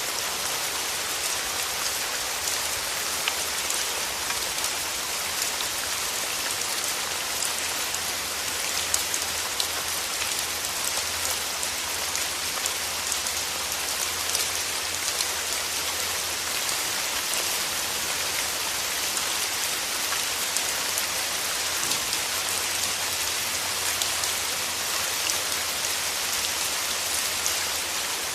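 Steady rain falling through forest trees: an even hiss with many single drops ticking through it.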